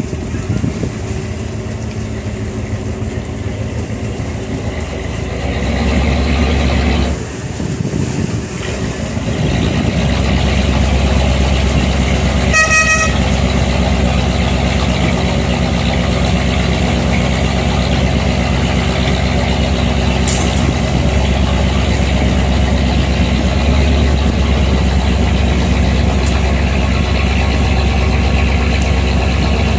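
Steady low rumble of a boat's engine, with a single short horn toot about halfway through.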